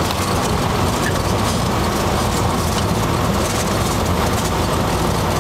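Cessna 182's piston engine and propeller running steadily, heard inside the cockpit as a loud, even drone with a rushing hiss over it.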